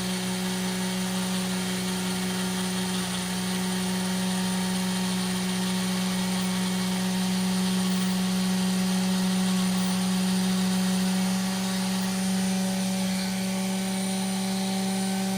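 A small electric polishing tool running steadily with a constant hum while it buffs black stains off a pocketknife blade.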